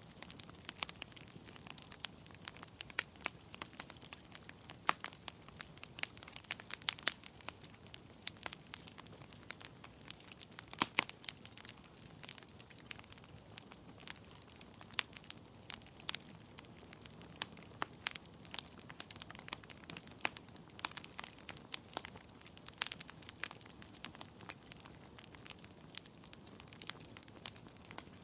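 Wood fire burning in a fireplace: logs crackling with irregular sharp pops over a soft steady hiss, the loudest pops about eleven seconds in.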